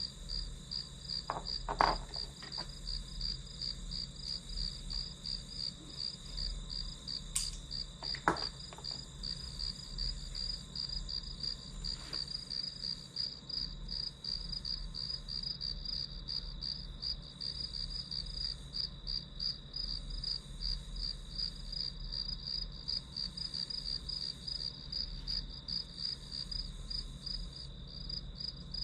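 Crickets chirping in a steady, evenly pulsing high trill over a low hum. Two sharp taps stand out, about two seconds and eight seconds in.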